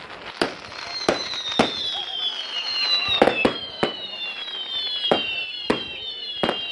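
Fireworks display going off: a string of sharp bangs, about nine in under seven seconds, with several high whistles that slide slowly down in pitch over the first few seconds.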